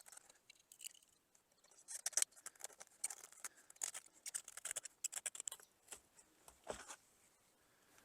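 A thin used mountain bike tire being cut with a hand cutting tool: irregular runs of crisp, quick snips and clicks as the rubber is cut through.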